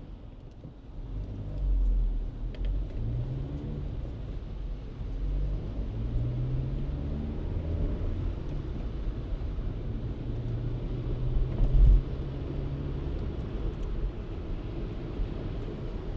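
Car driving, with a steady low road rumble and an engine note that rises in pitch as it accelerates. There is a single thump about three-quarters of the way through.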